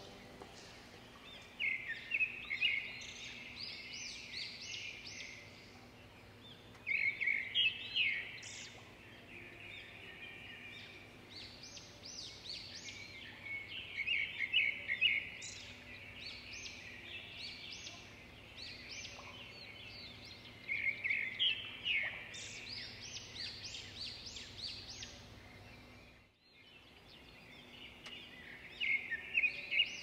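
Birds singing in short bursts of rapid, high chirping notes that come every few seconds, over a faint steady background hum.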